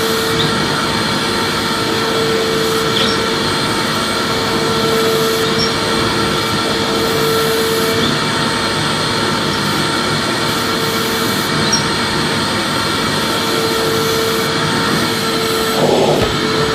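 Vacuum cleaner running steadily: a continuous rushing whoosh with a steady whine, a few faint ticks, and a brief louder rattle near the end.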